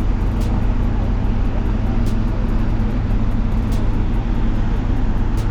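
Heavy road-construction compressor running steadily close by, a loud, continuous deep hum and drone, heavy enough that the ground shakes.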